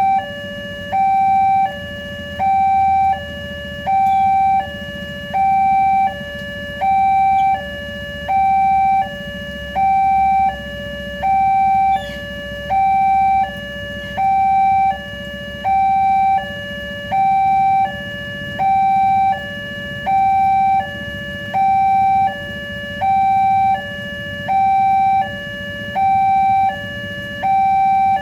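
Railway level-crossing warning alarm sounding its electronic two-tone signal, a higher and a lower tone alternating about every three-quarters of a second, the higher tone louder. It warns that a train is approaching and the crossing gates are closing or closed.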